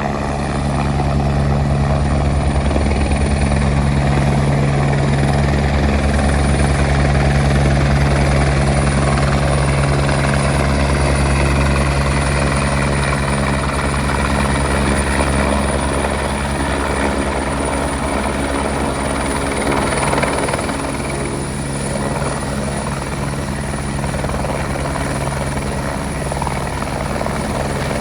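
Helicopter running under power while air-taxiing and taking off: a steady low rotor beat with a thin high whine over it, easing slightly about two-thirds of the way through.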